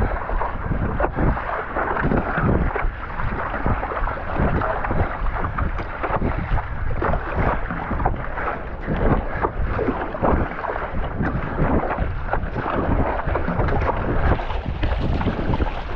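Strong wind buffeting the microphone over a choppy sea, with water splashing and slapping against a stand-up paddleboard and paddle in rapid, irregular splashes.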